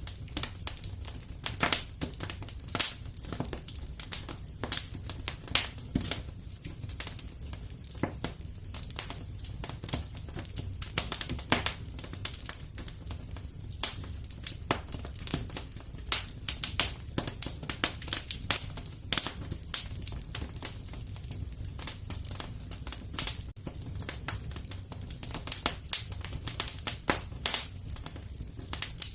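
Wood fire crackling in a fireplace: frequent irregular snaps and pops over a low steady rumble.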